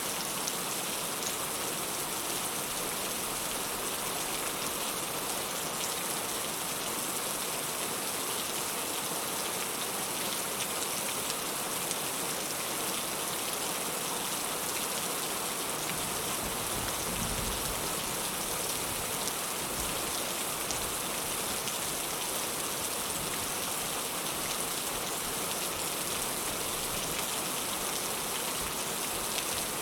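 Heavy rain falling steadily, a dense even hiss. There is a brief low rumble about two-thirds of the way through.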